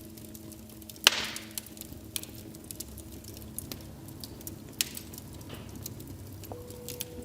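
Wood fire crackling, with scattered sharp pops and one loud pop about a second in followed by a brief hiss.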